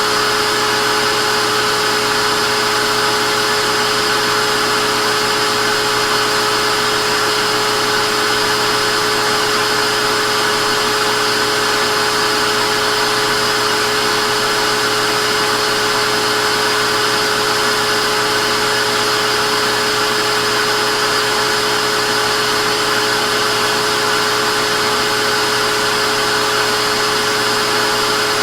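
Vacuum cleaner running steadily: a constant motor whine over the rushing of air, with no change in pitch or level.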